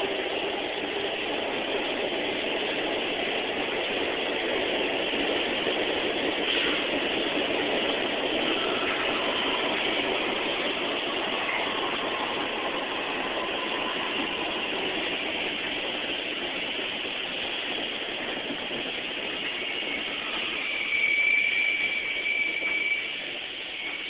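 NYC subway station noise: a train running, a steady rush and rumble, with a high, steady squeal coming in near the end.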